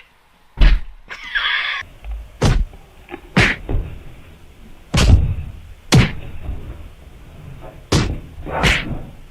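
A series of about eight heavy thuds or knocks at irregular intervals, with a short scraping noise about a second in.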